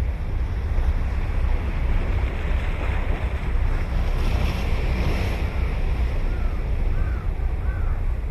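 Ocean surf breaking and washing ashore, with a steady low wind rumble on the microphone; the wash swells up about three to five seconds in. Near the end a bird gives several short chirps.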